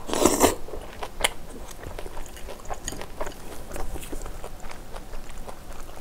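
Close-miked eating of a mouthful of braised pork with kimchi. A short, louder noisy sound comes as the bite goes in at the start, then a run of small wet chewing clicks.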